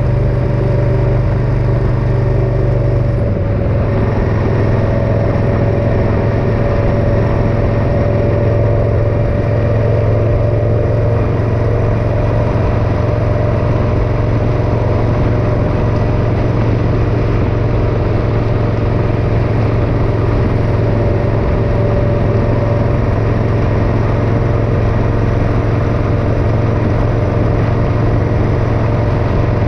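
Motorcycle engine running steadily at road speed, with a slight drop in pitch about three seconds in.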